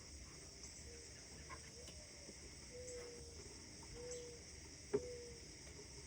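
A steady high chorus of crickets or other insects, with a bird giving five short, low, slightly falling notes about a second apart. A single sharp click about five seconds in is the loudest sound.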